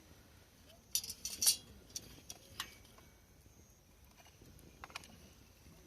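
Wood campfire crackling: a quick flurry of sharp pops about a second in, then single scattered pops over a faint background.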